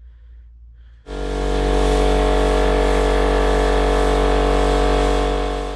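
Spray-painting equipment running: a steady mechanical hum with a strong low drone and hissing air. It starts abruptly about a second in and holds level.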